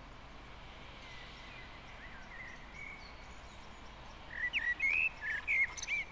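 A songbird singing: faint chirping notes at first, then a louder run of quick twittering chirps in the last two seconds, over steady outdoor background noise.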